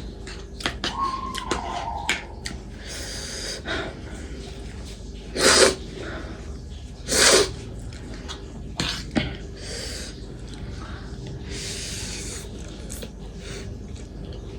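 A person eating close to the microphone: small clicks and mouth noises, sniffing, and two short, loud bursts of breath about two seconds apart, near the middle.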